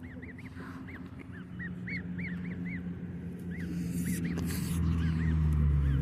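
Newly hatched goslings peeping: a dozen or more short, high, arched peeps in loose runs. A low steady hum underneath grows louder toward the end.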